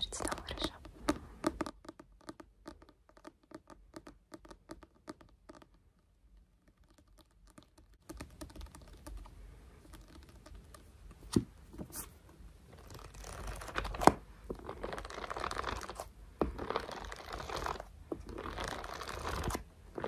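Close-miked ASMR hand sounds: rapid light tapping and clicking for the first few seconds, a short pause, then hands rubbing and scratching with a few sharp clicks.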